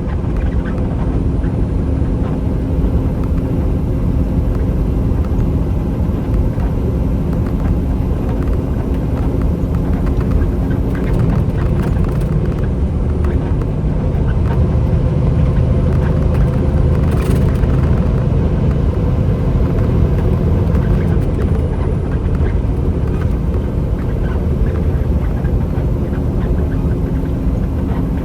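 Semi-truck driving: a steady, loud low rumble of engine and road noise with a faint steady engine drone.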